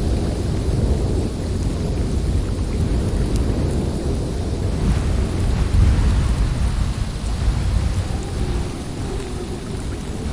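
Snowstorm wind blowing hard: a deep, steady rush of noise that swells and eases in gusts.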